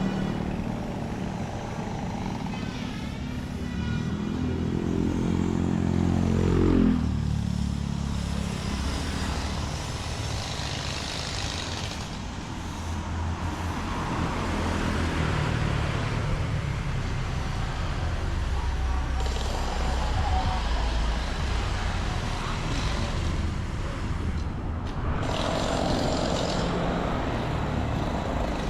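Motor traffic on a street: engines running with a steady low rumble, one vehicle's engine rising in pitch and getting louder as it passes, loudest about seven seconds in.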